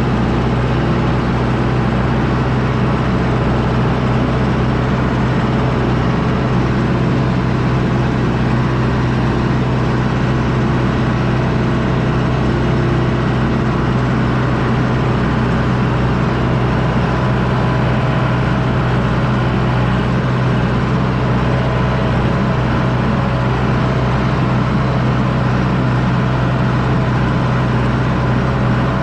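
John Deere 6110D tractor's diesel engine running steadily under load while pulling a disc harrow: a constant, even drone with no change in pitch or level.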